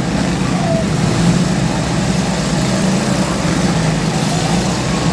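Lawn tractor engines running steadily.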